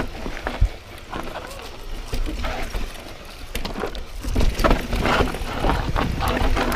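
Pivot Firebird mountain bike riding down a rough downhill trail: knocks and rattles from the bike over rocks and roots, with a sharp knock under a second in. A deep wind rumble on the camera mic grows louder through the second half.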